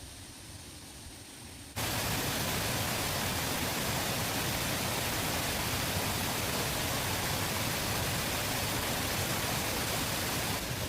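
Loud, steady rush of water that starts abruptly about two seconds in, after a quieter trickling sound.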